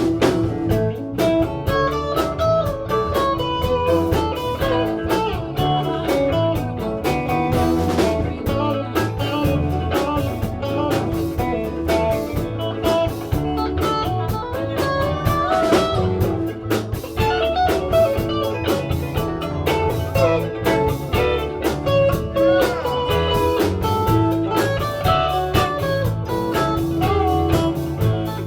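Blues band playing an instrumental break: a guitar lead with bent notes over bass and drum kit, no singing.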